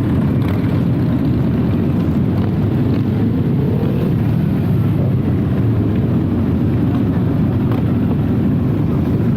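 Can-Am Ryker three-wheeled motorcycle riding along at a steady speed: a loud, steady low rumble of engine and road noise.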